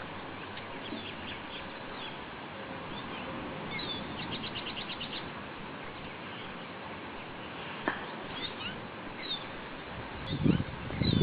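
A bird chirping with short high calls, including a quick trill of about eight rapid notes around four seconds in. A few loud low thumps near the end.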